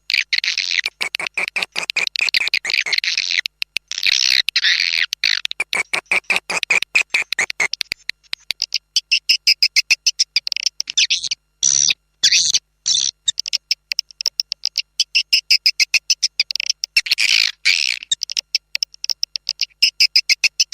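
Swiftlet calls: dense, rapid chittering trills that run almost without pause, briefly breaking off about halfway through. This is a swiftlet lure ("call sound") track, played to draw swiftlets into a nesting house.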